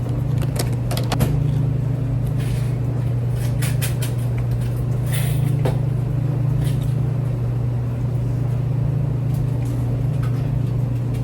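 A steady low mechanical drone with scattered light clicks and knocks over it.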